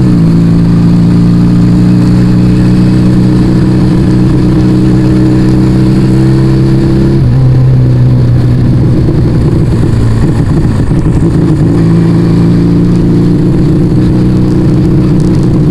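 Yamaha Vega ZR motorcycle engine breathing through an aftermarket Arrow exhaust, running under way at a steady note. About seven seconds in, the note changes and wavers, then settles steady again a few seconds later.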